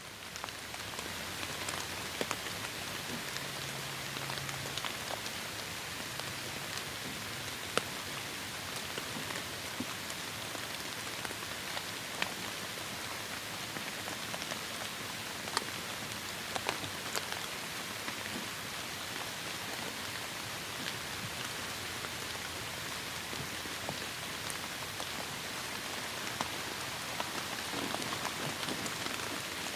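Heavy rain falling steadily, with single drops now and then striking sharply above the dense patter. It fades in over the first second.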